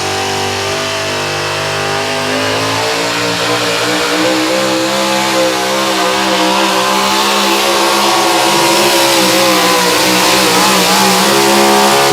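Race-car V8 engine of a Chevrolet drag car running at high revs under full throttle, its pitch steady and climbing a little midway while the sound grows slightly louder toward the end.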